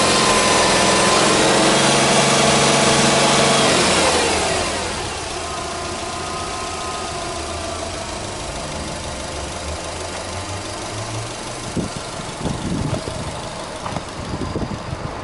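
Subaru Legacy 2.0GT spec B's EJ20 turbocharged flat-four held at raised revs, then the revs fall away about four seconds in and it settles to a steady idle. Wind buffets the microphone near the end.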